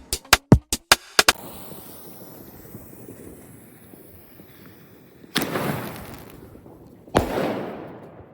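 A quick run of sharp cracks in the first second, then two loud firework bangs about two seconds apart, each trailing off in a long rumbling echo.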